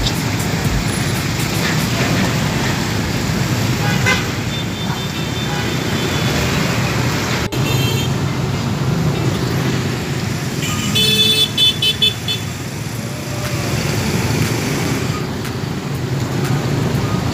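Busy road traffic: vehicle engines and tyres make a steady rumble, with a vehicle horn sounding faintly about a third of the way in and then honking in several short, loud blasts past the middle.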